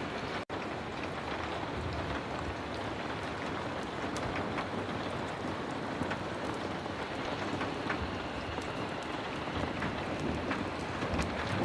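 Heavy rain falling steadily, with scattered small clicks through it. The sound cuts out for an instant about half a second in.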